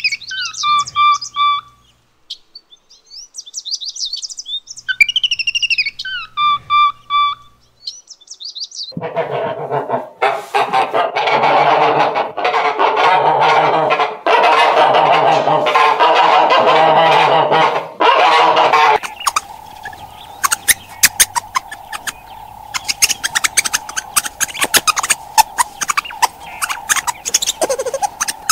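A flock of domestic geese honking and cackling for about ten seconds in the middle. Before it come two sets of short chirping calls that fall in pitch. After it come rapid high clicks over a steady hum.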